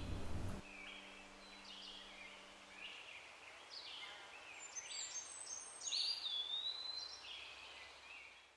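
Faint birdsong in a forest: several small birds chirping, with a whistled note that glides down about six seconds in. A low held tone fades out about three seconds in.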